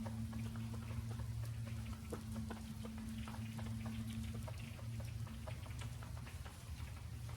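Pileated woodpecker pecking at wood: irregular light taps and knocks, over a steady low hum.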